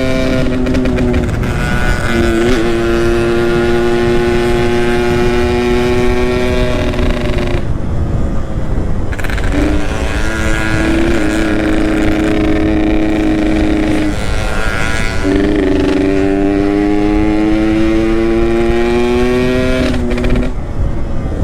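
Yamaha RX-King's two-stroke single-cylinder engine pulling under way. Its pitch climbs steadily in long pulls through the gears, with a short break where the throttle eases about 8 seconds in. Heavy wind rumble on the microphone runs underneath.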